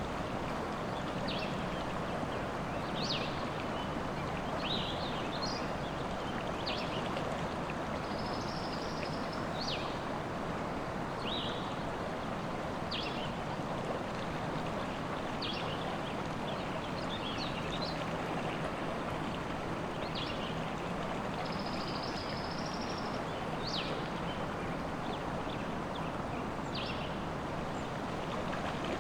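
Flowing river water, a steady rush, with small songbirds chirping every second or two over it and two longer high trills, one about eight seconds in and one about twenty-one seconds in.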